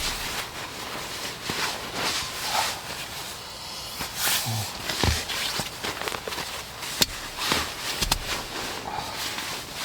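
Scattered soft footsteps and rustling of a person moving about, with a sharp click about seven seconds in and a few low thumps.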